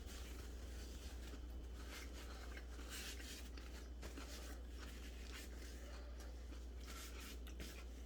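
Quiet room tone: a steady low hum with faint, scattered soft rustles.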